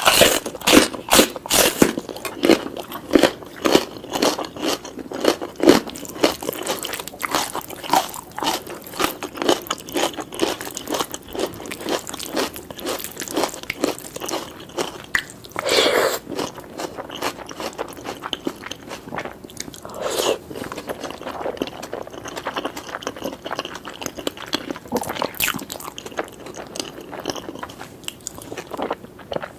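Close-miked chewing of lamb and egg curry with basmati rice, grilled tomato and peppers: a dense run of crunching bites and wet mouth clicks, loudest in the first couple of seconds.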